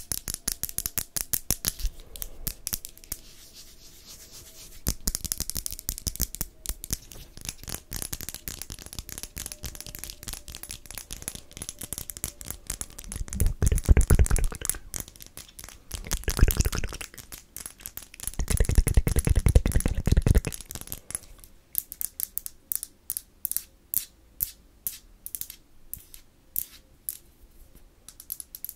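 Close-miked ASMR tapping and clicking sounds, rapid and dense for much of the time. Near the middle come three louder scratchy stretches with a deep rumble. In the last few seconds the sound thins out to separate taps a fraction of a second apart.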